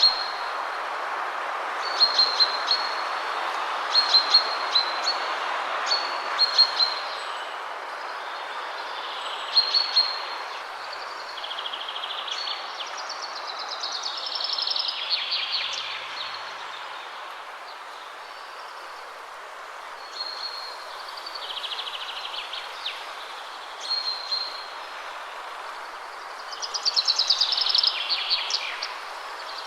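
Wind rushing steadily through trees, with songbirds singing over it. A short call repeats about every two seconds through the first half, and longer trilled phrases come around the middle and near the end.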